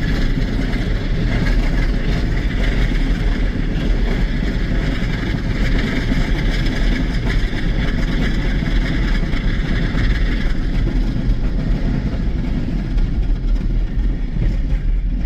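A vehicle's engine running steadily with a heavy low rumble, with a higher hiss over it that fades out about ten seconds in.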